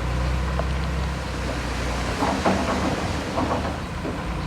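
Heavy diesel earthmoving machinery running with a steady low engine hum. About two seconds in the hum drops back and a run of metallic clanking and squealing is heard.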